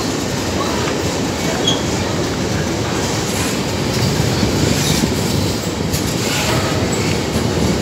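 Empty ore train's GDT gondola wagons rolling past close by: steel wheels clattering over the rails in a steady, dense run with no let-up.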